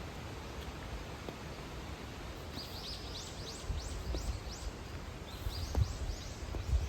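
A small bird sings two quick runs of rising high chirps over steady outdoor background noise, with a faint low knock or two in between.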